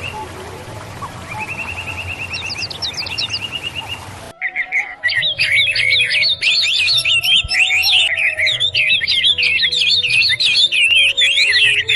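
Birds singing: at first a few quick trilled phrases of rapidly repeated notes. About four seconds in, this cuts suddenly to a louder, dense chorus of many birds chirping over one another.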